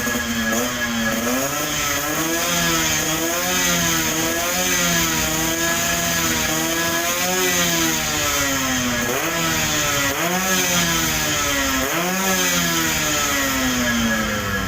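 Suzuki Tornado GX's two-stroke single-cylinder engine being revved over and over with the throttle blipped, its pitch rising and falling roughly every second and a half.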